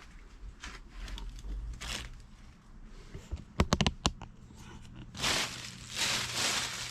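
Rustling and crinkling, with a quick run of sharp clicks about three and a half seconds in and a louder rustle from about five seconds on, over a faint steady low hum.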